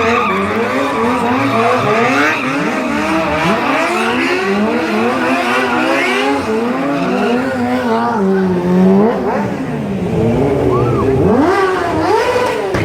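Stunt motorcycle engines revving up and down over and over as the riders hold wheelies, with several revs overlapping. Near the end there is one long rising rev.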